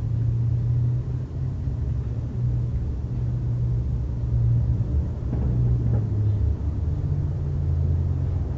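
A steady low mechanical hum, dropping slightly in pitch about seven seconds in.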